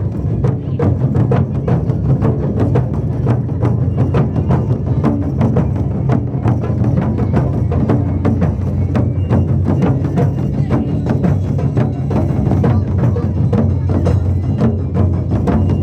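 Live taiko drum ensemble: large Japanese drums beaten in a fast, dense rhythm with sharp stick strikes over deep booming drum tones.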